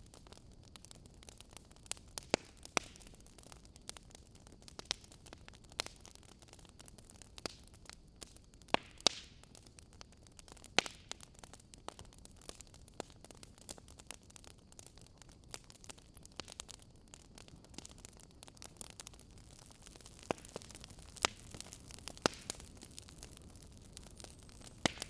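Wood fire crackling in a fireplace: a soft steady hiss with irregular sharp pops and snaps, several of them much louder than the rest.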